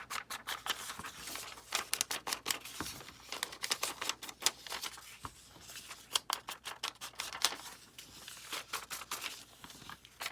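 Quick, irregular scratchy clicks and rubbing of hands working on paper, as a page is inked and handled.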